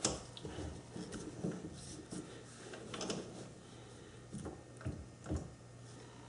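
Light clicks and knocks of a lathe tool post being shifted and lined up by hand, a few firmer knocks in the second half, over a faint steady low hum.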